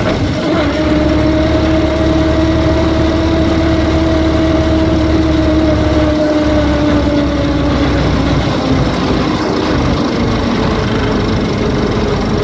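1908 Jackson veteran car's engine running under load up a gravel hill. It is a steady drone whose note changes abruptly just after the start and then slowly sags as the car climbs. The note changes again about eight seconds in.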